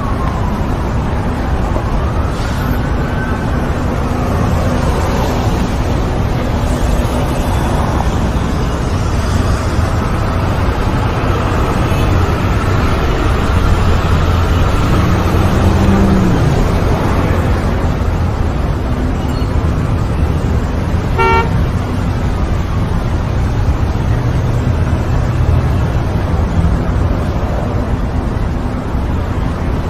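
Street traffic ambience: a steady, loud rumble of passing cars, with a short car-horn toot a little past two-thirds of the way through.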